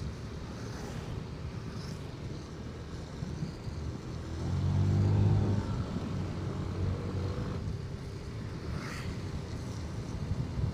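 Motorcycle riding along with its engine running and wind buffeting the microphone. About four seconds in, an engine note swells louder for a couple of seconds, then settles back.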